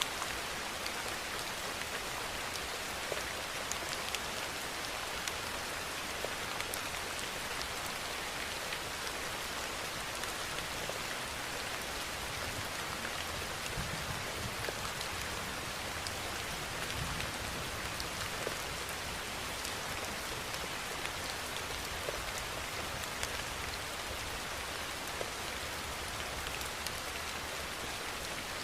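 Steady rainfall: a dense, even hiss of rain with scattered individual drops ticking through it. A faint low rumble rises under it around the middle.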